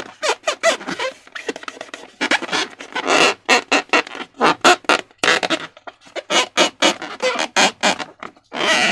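Slime being squeezed and worked by hand, a quick irregular series of wet squelches and smacks.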